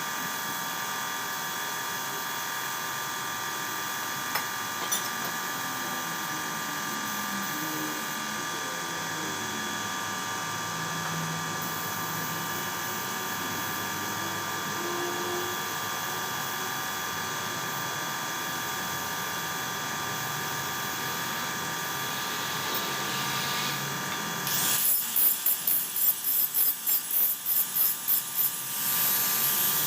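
Power tool motor running with a steady whine. Near the end it turns louder and rougher, pulsing about twice a second as it works the material.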